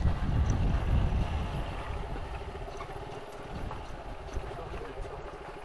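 Motorcycle engine running, with a steady pulsing note; wind rumbles on the microphone for the first two seconds or so, then eases.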